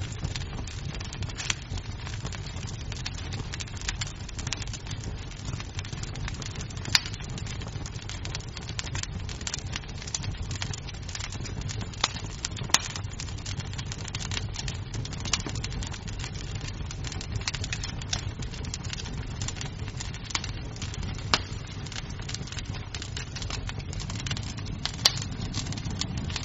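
Wood fire crackling in a fireplace: a steady low rumble of burning with many small snaps and three louder pops.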